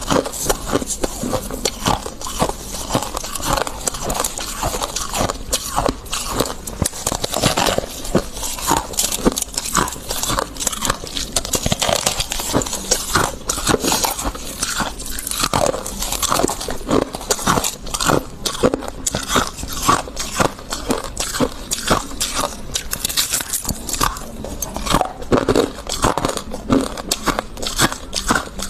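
Freezer frost being bitten and chewed close to the microphone: a continuous run of crisp, irregular crunches, several a second.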